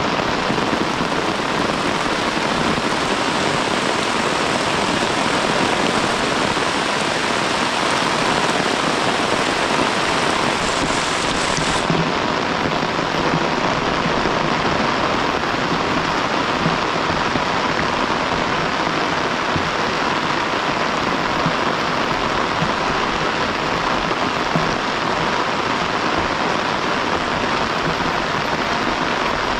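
Heavy rain falling steadily, an even, unbroken hiss that turns a little duller about twelve seconds in.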